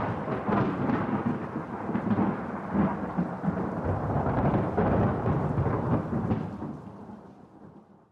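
A long peal of thunder rolling and crackling, which fades away over the last two seconds.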